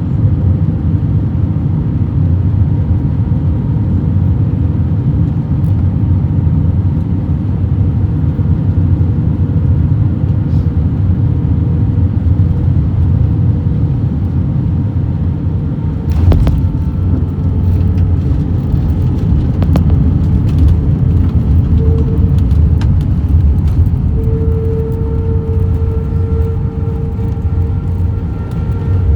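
Heavy, steady low rumble inside the cabin of an Airbus A321-200, with a short rattle of clicks about halfway through. Near the end a steady mid-pitched hum, the wheel-brake noise, comes in over the rumble as the aircraft slows.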